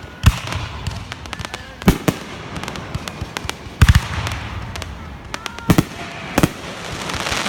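Fireworks going off: a run of sharp loud bangs a second or two apart, one of them a quick double near the middle, with crackling between.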